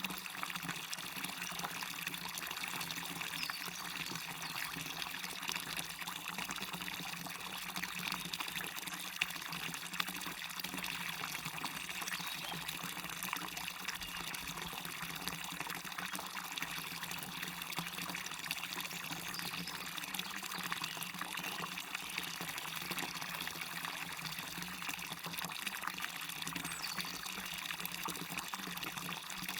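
Small waterfall splashing steadily into a stream, a continuous rush of falling and running water with fine splashing detail.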